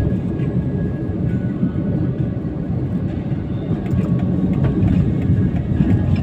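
Steady low road and engine rumble of a moving car heard from inside the cabin.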